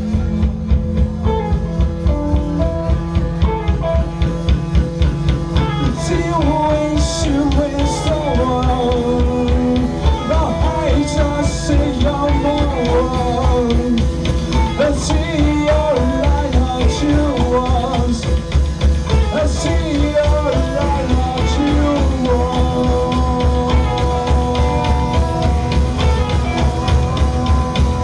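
Live improvised rock band jamming: drum kit keeping a steady, driving beat under heavy bass, with guitar lines wandering above. A few cymbal hits land about six to twenty seconds in.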